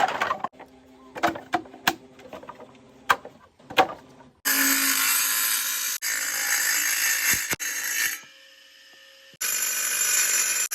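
A power tool cutting animal horn, running loud in two long stretches with a short pause between them, after a few seconds of scattered knocks and clicks as the horn is handled.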